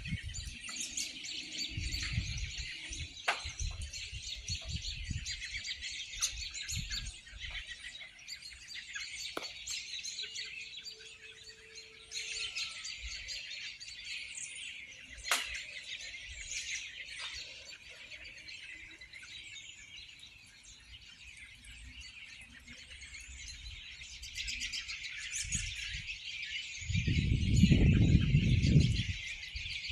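A large flock of songbirds chirping continuously in high, overlapping calls, with a few sharp ticks. A loud low rumble comes near the end.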